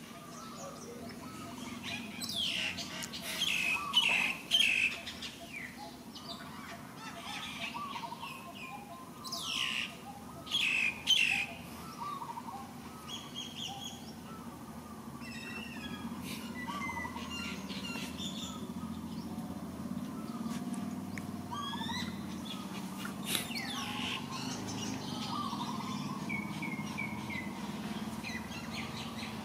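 Birds chirping and calling: loud clusters of quick, high, falling calls about two to five seconds in and again around ten seconds, then softer scattered chirps.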